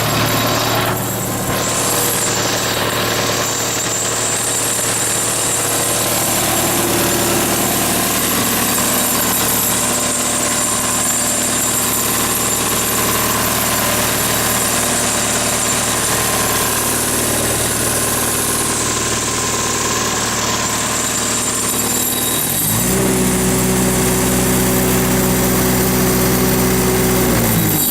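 Caterpillar 3024C four-cylinder diesel engine running steadily at idle, then revving up about 23 seconds in and holding at the higher speed.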